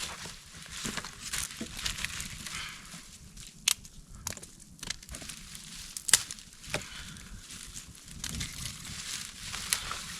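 Wood campfire crackling, with a handful of sharp pops scattered through it.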